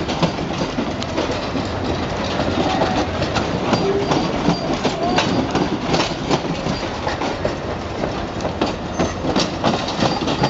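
Cars of the Canadian Pacific Holiday Train rolling past close by: a steady rumble with steel wheels clicking and knocking irregularly over the rail joints.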